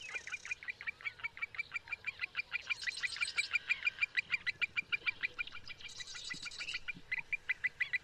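Birds chirping in a rapid, unbroken series of short high calls, several a second.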